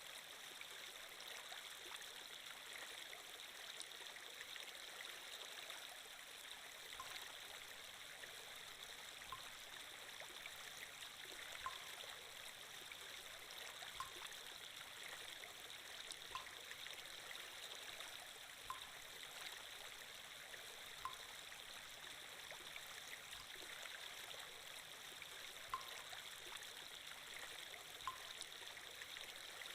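Steady flowing-water sound effect, like a gently running stream, with a short soft tick about every two seconds.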